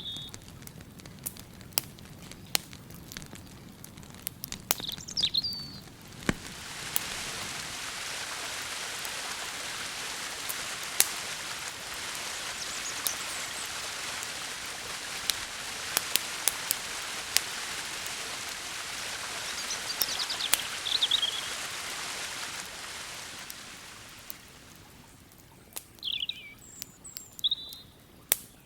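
Campfire crackling with sharp pops, and small birds chirping a few times. From about six seconds in a steady rushing hiss comes in and fades out again near the end.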